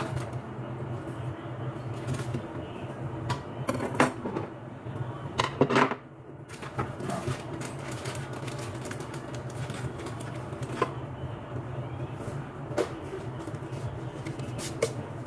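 Scattered clicks and knocks of objects being handled, over a steady low hum; the loudest knocks come about four and six seconds in.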